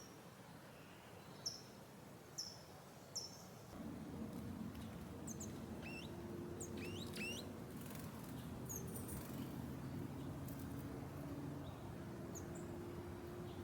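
Suburban garden ambience: small birds chirping and whistling in short, sharp calls, with a cluster of quick rising and falling notes in the middle. About four seconds in, a low steady drone joins and holds under the birds.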